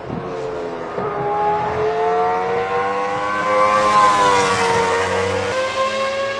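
Shelby GT500's V8 engine under hard acceleration. Its pitch climbs and grows louder to a peak about four seconds in, then falls away.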